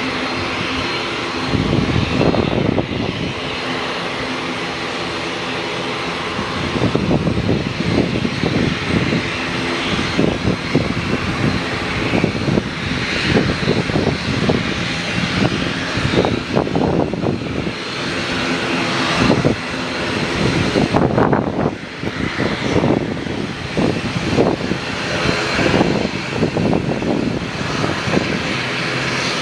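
Aircraft engine running steadily, with strong gusty wind buffeting the microphone in irregular blasts.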